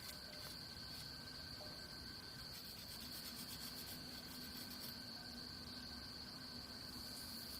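Faint, steady high-pitched drone of insects in the forest, holding one pitch throughout, with a few light rustles.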